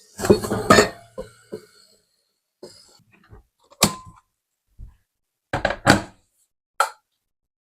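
Household objects being handled and set down: a few short clusters of knocks and clatters, with one brief ringing clink about four seconds in.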